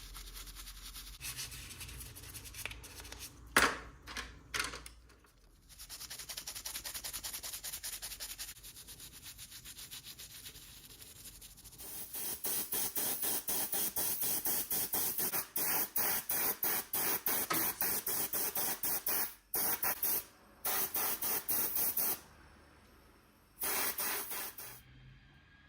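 Rapid, evenly repeated rubbing strokes on a surface. They start quietly, with a few sharp knocks, then grow louder about halfway through, stop briefly twice, and end with one short burst near the end.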